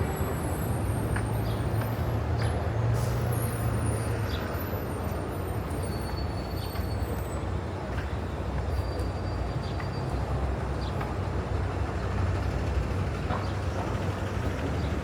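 City street traffic: a steady wash of vehicle noise with a low engine hum from a heavy vehicle, strongest in the first few seconds, and a few short high-pitched chirps and squeaks.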